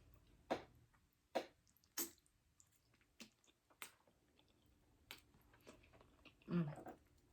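Close-miked eating mouth sounds: wet smacks and clicks of chewing, about six separate sharp ones spread out, with a short hummed voice sound about six and a half seconds in.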